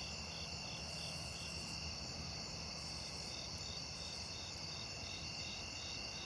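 Crickets chirping steadily: a continuous high trill with a pulsing chirp about three times a second.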